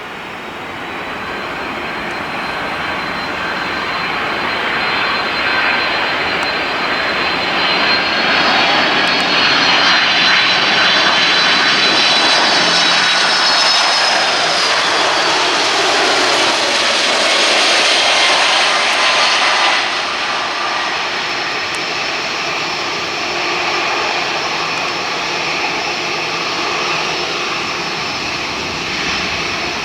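Boeing 767-300ER jet airliner passing, its engine noise building up over about ten seconds and holding loud, with a high whine that drifts in pitch. It drops off suddenly about two-thirds of the way through and carries on at a lower steady level.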